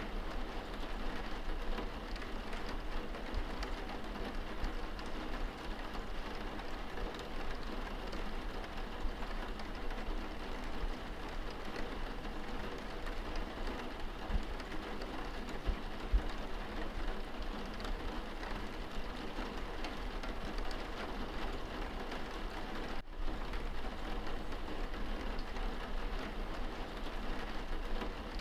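Steady rain beating on window glass, heard from indoors as a dense, even patter. A momentary break in the sound about two-thirds of the way through.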